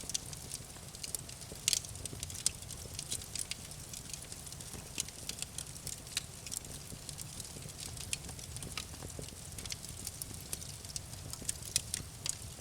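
Campfire crackling: irregular sharp pops and snaps of burning wood over a low, steady rumble of the flames, a few louder pops scattered through.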